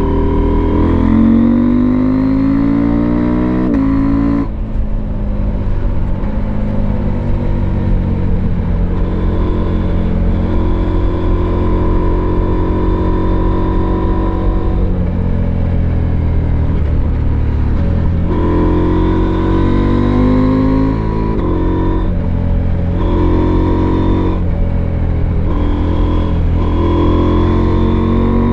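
Husqvarna Norden 901's parallel-twin engine pulling hard, its pitch rising through the revs and dropping at each upshift. It settles to a steady cruise for several seconds in the middle, then accelerates again with a series of quick gear changes near the end.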